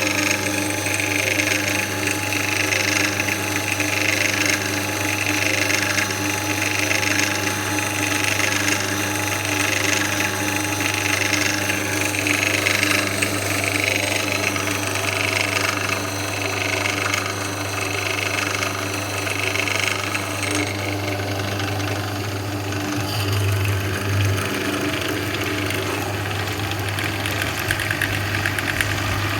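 Einhell TE-BD 750 E bench drill press's 750 W electric motor running continuously with a steady hum and a soft pulsing whirr about once a second; the higher part of the sound thins out a little past the middle.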